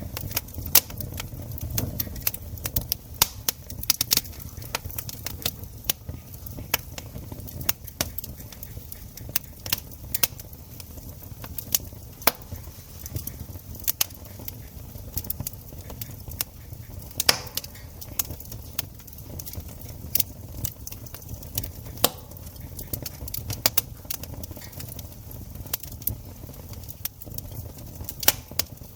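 Wood campfire crackling, with irregular sharp snaps and pops over a low steady rumble of flame.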